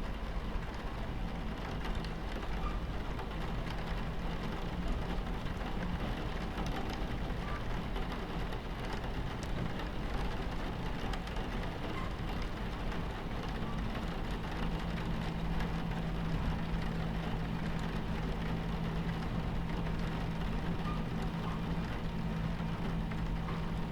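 Steady low rumble of a train heard from inside the carriage, with rain pattering on the window. A low steady hum in the rumble grows stronger a little past halfway.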